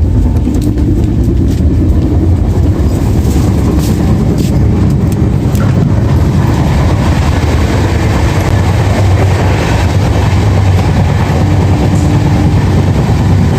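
Passenger train running along the track: a steady, loud rumble of the coaches on the rails.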